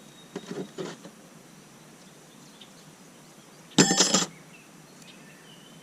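Metal parts of a disassembled Leslie S-3L air horn being handled: a couple of light knocks in the first second, then one loud, brief metallic clink with a short ring about four seconds in.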